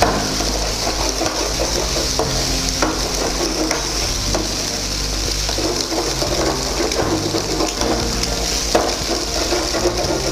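Egg and vegetables sizzling in hot oil in a fry pan as they are stirred, with occasional scrapes and knocks against the pan.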